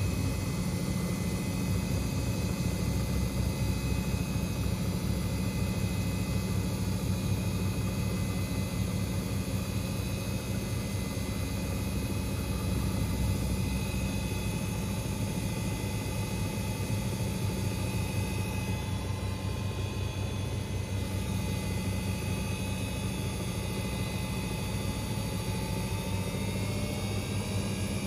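Front-loading washing machines spinning: a steady whir and rumble of drum and motor, with the motor's whine rising in pitch near the end as the drum speeds up.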